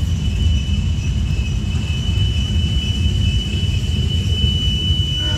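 Covered hopper cars of a freight train rolling past: a steady low rumble of steel wheels on the rails, with a thin, steady, high-pitched wheel squeal throughout. A second, lower squeal starts near the end.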